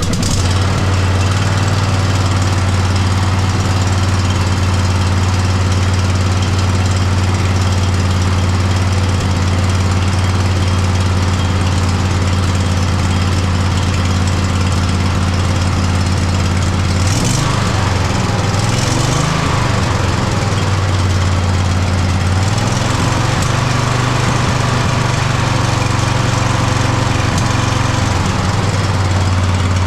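Poulan riding mower's twin-cylinder engine running with a misfire. The engine speed dips and rises about 17 seconds in and runs faster from about 22 seconds. Spark plug and coil have tested good, so the owner takes the misfire for a fuel and air problem in the carburetor.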